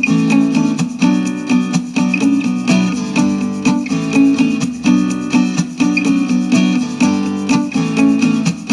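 Acoustic guitar music played back through the Armaggeddon X-Bar 2 soundbar as a sound test: quick, even plucked and strummed notes, ending on a last chord that rings out and fades.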